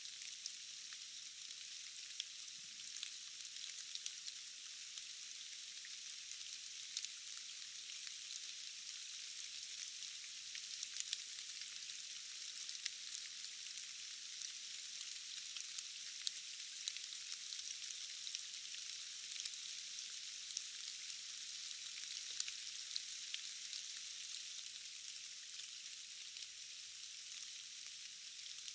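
Steady rain, a dense even hiss with many small drop ticks scattered through it and no low rumble.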